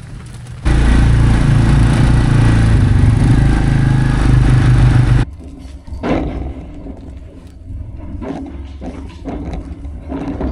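A loud engine running steadily for about four and a half seconds, starting and cutting off abruptly, followed by a quieter stretch of scattered knocks and scuffs.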